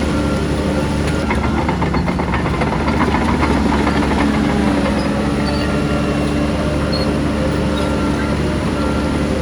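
Heavy diesel earthmoving machinery (a Shantui bulldozer and dump trucks) running steadily, with metallic clattering for a couple of seconds early on. Short beeps repeat about once a second near the start and again near the end.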